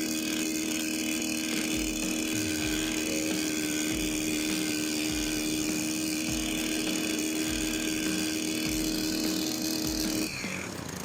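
STIHL HT133 pole pruner's small 4-MIX engine running steadily at high speed while its carburetor is being tuned. Near the end the high steady note cuts off and the engine drops back to a quieter, lower run.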